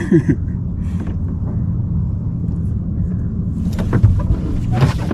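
Steady low rumble, with a few short knocks about four and five seconds in.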